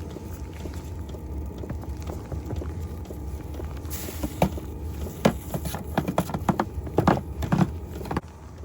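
Footsteps crunching through deep fresh snow, a string of irregular soft thuds, most of them in the second half, over a steady low rumble.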